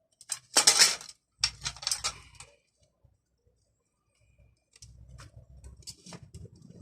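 Small metal parts and tools being handled, clinking and clicking in two clusters, then a pause of about two seconds, then more scattered clicks over a low rumble.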